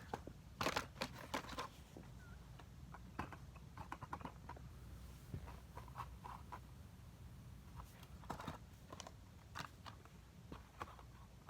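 Die-cast toy cars and their packaging being handled: scattered faint clicks and crinkling rustles, busiest in the first couple of seconds and sparser after.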